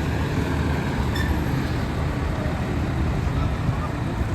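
Heavy-haul truck's diesel engine running steadily under load, a low continuous rumble, with faint voices in the background.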